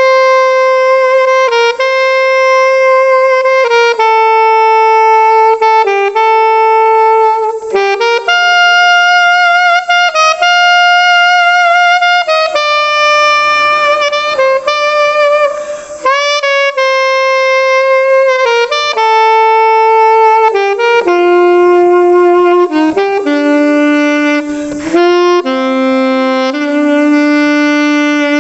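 Unaccompanied alto saxophone playing a slow melody of long held notes, one at a time, with a bright, attacking tone from a non-classical mouthpiece. Partway through, one held note carries a breathy edge, and toward the end the melody moves lower.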